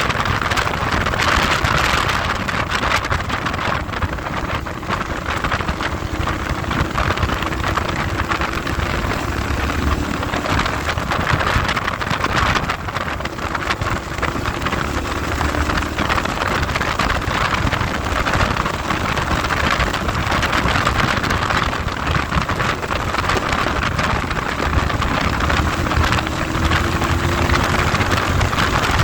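Heavy wind noise buffeting the microphone on a moving motorcycle, with the engine faintly audible beneath it, its pitch rising three times as it accelerates.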